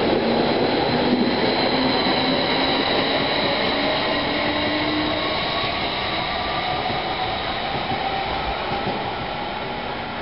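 Stadler Flirt electric multiple unit pulling out of the station: rolling noise of its wheels with a faint, slowly rising electric whine, fading gradually as the train moves away.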